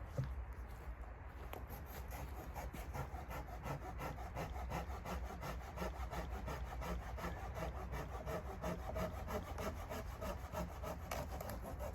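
Hand saw cutting through wood in quick, even back-and-forth strokes, starting about a second in.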